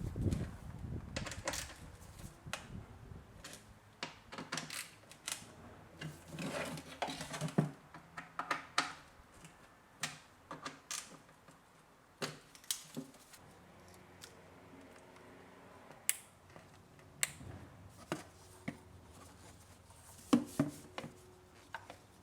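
Irregular clicks, taps and short rustles of hands handling the plastic parts of a car engine's air intake filter housing and filter, with a few louder knocks now and then.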